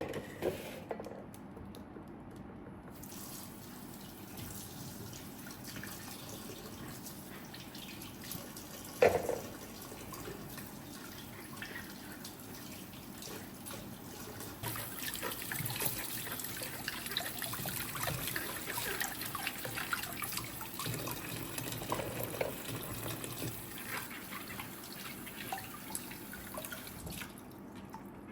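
Kitchen tap running into a sink, the flow growing heavier about halfway through, with a couple of sharp knocks, one at the start and one about nine seconds in.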